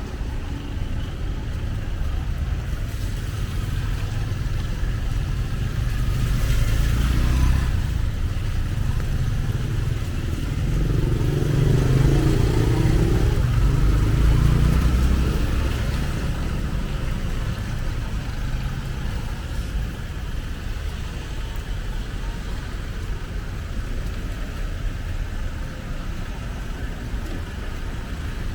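Road traffic passing on a city street: a steady low rumble of vehicles, with one vehicle passing louder about ten to fifteen seconds in.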